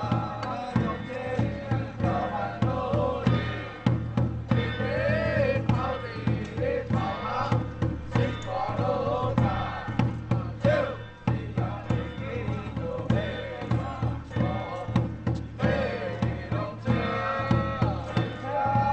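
Chinese temple ritual music: a wavering melody, chanted or played, over continuous drum and percussion beats.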